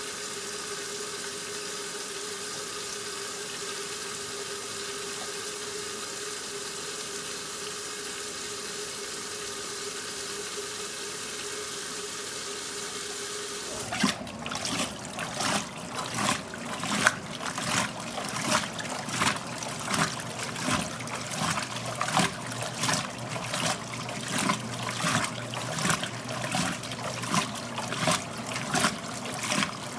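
1969 Westinghouse LAJ 535A3 front-loading washing machine: a steady hum with water running in, then about fourteen seconds in the drum starts tumbling and the water sloshes rhythmically, about once a second.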